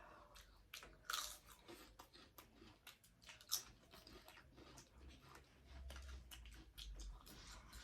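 Faint close-up chewing and mouth noises of someone eating, a steady run of small wet clicks with a couple of louder ones about a second in and midway.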